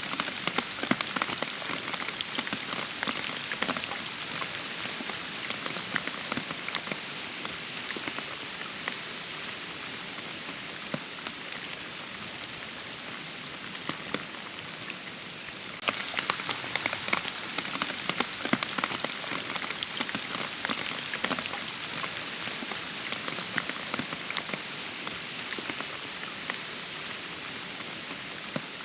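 Steady rainfall with many distinct close drop hits over a continuous hiss of rain. The rain suddenly gets louder about halfway through.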